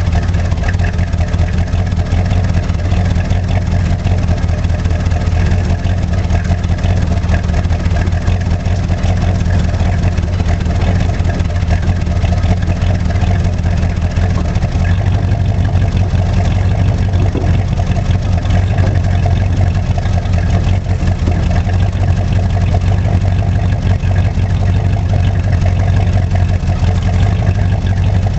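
1985 Chevrolet Monte Carlo SS's carbureted 305 V8 idling steadily as it warms up after a cold start, its electric choke not working.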